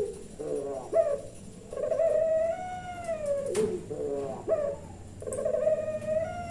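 Puter pelung, a long-cooing domestic Barbary dove, cooing repeatedly. Each phrase is a few short stuttered notes followed by a long drawn-out coo that rises slightly, then falls away at the end. The last coo starts near the end and runs on.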